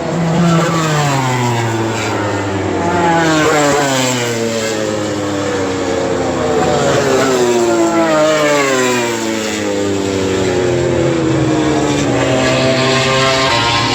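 A string of MotoGP four-stroke racing motorcycles passing one after another at top speed, around 320–330 km/h, each high-revving engine note dropping sharply in pitch as it goes by.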